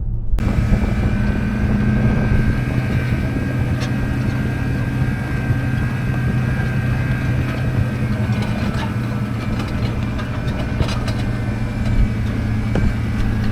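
A motor vehicle's engine running at a steady speed while driving: an even low hum with a fainter steady whine above it, starting abruptly just after the start.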